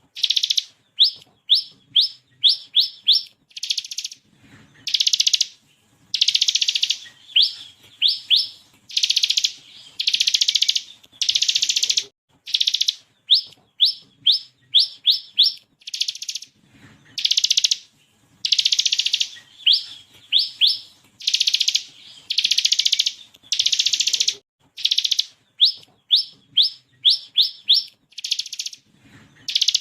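Ciblek kristal, a bar-winged prinia, singing in its gacor style: buzzy rattling trills about a second long (the 'ngebren') alternate with quick runs of three to six sharp rising notes (the 'tembakan'), over and over with short pauses between.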